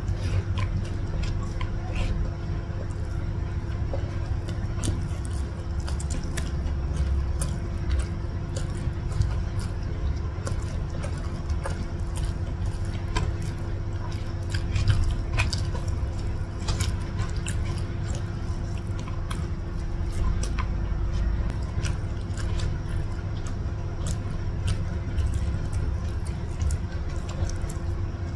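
Close-miked chewing and mouth sounds of someone eating rice and fried chicken with their fingers: many small wet clicks and smacks over a low rumble, with a faint steady hum underneath.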